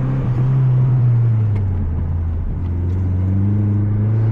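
Mazda 3 MPS's 2.3-litre turbocharged four-cylinder engine heard from inside the car at track pace: the pitch eases down slightly, then from about two and a half seconds in rises steadily as the car accelerates again.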